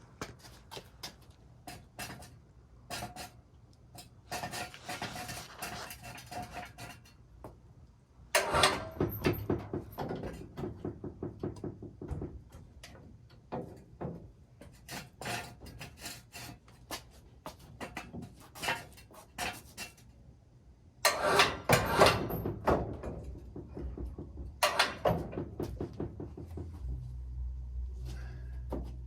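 Irregular knocks, clicks and clatter of hands-on work with tools, with two louder spells of rapid clicking, one about a third of the way in and one about three quarters through. A low steady hum comes in near the end.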